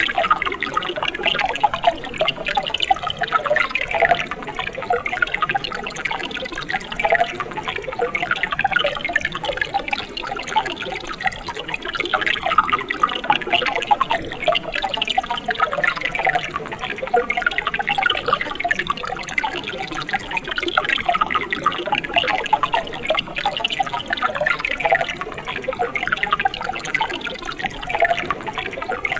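Mountain stream running over rocks: a steady babble of flowing water with many small splashes and gurgles.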